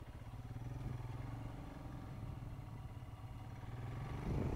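Motorcycle engine idling steadily with a low hum, with louder traffic noise building near the end.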